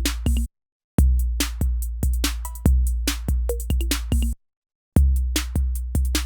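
Drum machine pattern played back from an Akai MPC sampler: long low kick drums under short sharp hits and a few short pitched blips. The loop stops dead for about half a second twice and starts again from the top each time.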